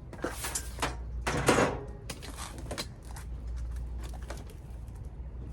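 Clattering and scraping of stored household items being shifted and pulled down by hand, loudest about a second and a half in, then a few fainter knocks.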